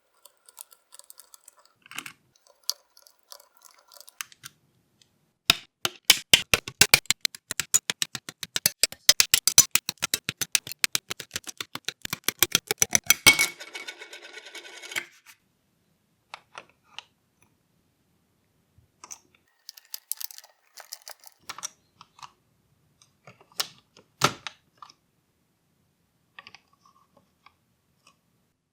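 Small plastic and metal parts of a model engine kit being handled and fitted. Scattered light clicks and taps, with a dense run of rapid clicking for about eight seconds in the middle, followed by a brief rustle.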